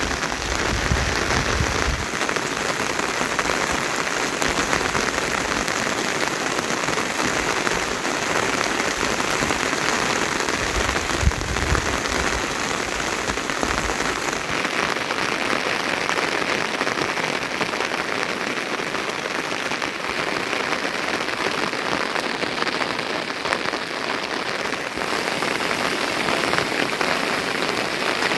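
Steady rain falling, an even hiss, with brief low rumbles near the start and about eleven seconds in.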